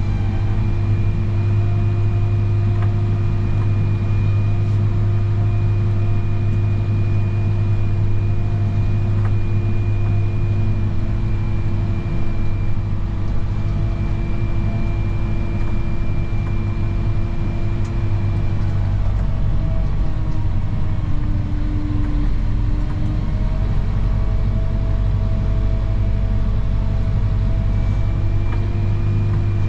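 Snow plow vehicle's engine running steadily under load, a low drone with a steady whine over it; the pitch dips and shifts for a few seconds about twenty seconds in, then settles again.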